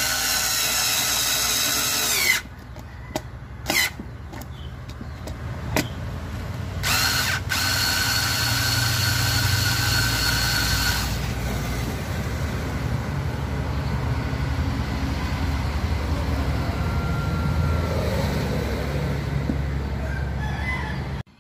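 Power drill running in short bursts: a high motor whine that sags in pitch as it stops, a few clicks, then another burst. After that comes a steadier, lower running noise.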